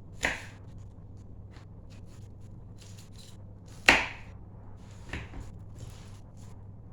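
A kitchen knife striking a cutting board a few separate times, the loudest just under four seconds in, with light taps and clicks between. A low steady hum runs underneath.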